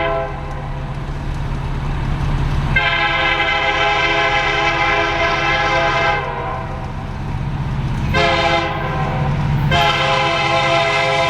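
Train horn sounding the grade-crossing warning: the end of one long blast, then a long blast, a short one, and another long blast, over the low rumble of the moving train. This is the long-long-short-long pattern that signals a train approaching a road crossing.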